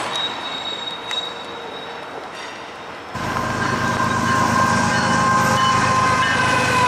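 Diesel-hauled freight train rolling by with a few clicks from the rails. About three seconds in it jumps suddenly louder, with engine rumble and steady high-pitched tones held over it.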